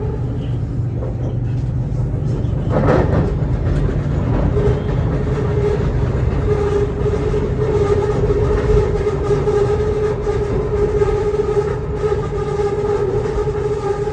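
BTS Skytrain EMU-B1 electric train running, a steady low rumble with a brief swell of noise about three seconds in. From about four or five seconds in, a steady motor whine with higher overtones rides over the rumble.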